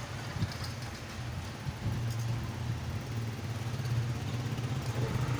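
A motorcycle engine idling steadily with a low, even hum.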